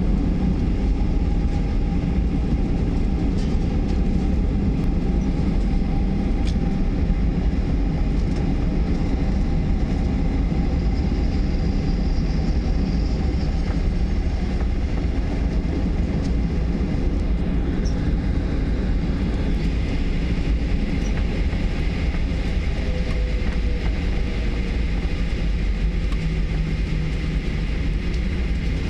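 Jet airliner taking off: a steady, low rumble of engine and runway noise.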